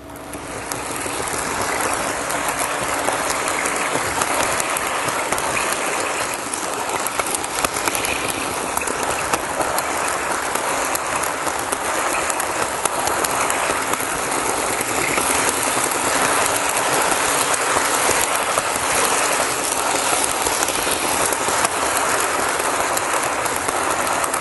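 N-scale model train with a BR 218 locomotive running on its track, heard close from aboard the train: a steady, dense whirring and rattling of the small motor, gears and wheels on the rails. It builds up over the first couple of seconds as the train gets under way.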